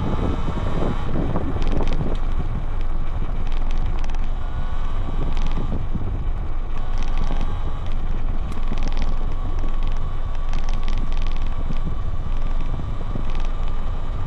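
Talaria Sting R MX4 electric dirt bike under way, its motor and drive making a steady whine that rises a little near the end. Heavy wind buffets the handlebar-mounted microphone, and scattered clicks and rattles come through.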